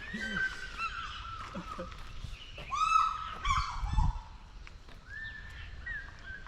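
Birds calling: a series of short, clear-pitched cries, several overlapping about three to four seconds in, and another near the end.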